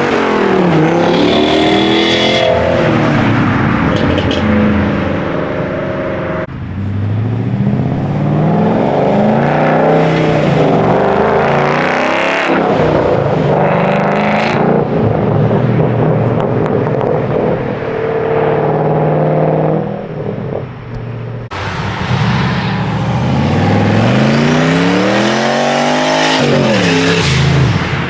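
Performance car engines revving and accelerating, several passes in turn, the engine pitch climbing and falling again and again, with sudden changes between one car and the next.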